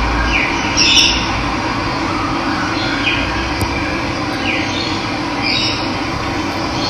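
Steady rush of running water, with a bird repeating a short call that falls in pitch about once a second.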